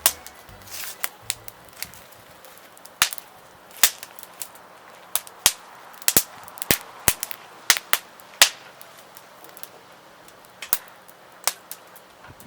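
Wood fire crackling, with sharp irregular pops and snaps over a faint hiss of burning.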